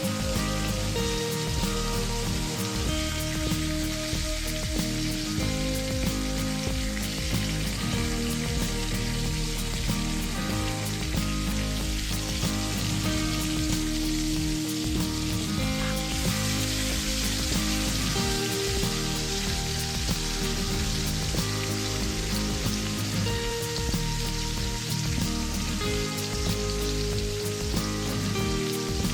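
Food frying in coconut oil in a pan, a steady sizzle with fine crackling, under instrumental background music.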